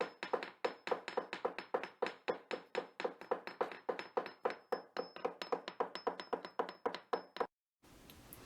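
A rapid, even series of sharp taps or knocks, about four to five a second, which stops suddenly about seven and a half seconds in.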